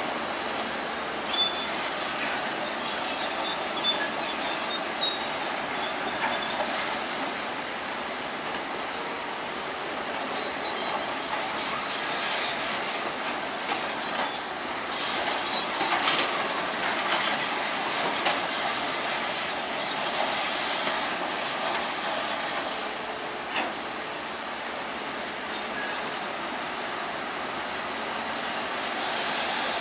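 Crawler bulldozer working, its steel tracks squealing and clanking, with high, thin squeals that come and go over a steady mechanical noise.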